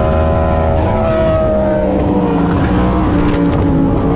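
Superbike engine running at high revs, its note falling in pitch in steps about a second in and again about two seconds in.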